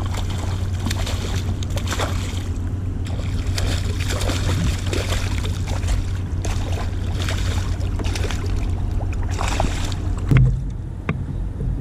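Water splashing and sloshing around a canoe, with irregular knocks and clicks of handling in the boat, over a steady low rumble of wind on the microphone. A louder thump comes about ten seconds in.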